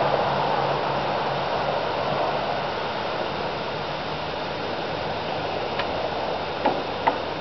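A passing car's steady tyre-and-engine rush slowly fading away, with two light clicks near the end.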